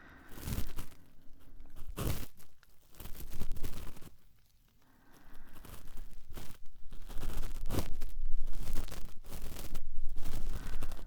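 Cotton swab rubbing and scratching close inside an ear microphone, in irregular strokes of ASMR ear cleaning, with a short pause around the middle.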